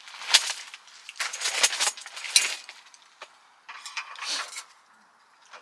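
Metal clinking and rattling in several short, irregular bursts, like utensils or cookware being handled.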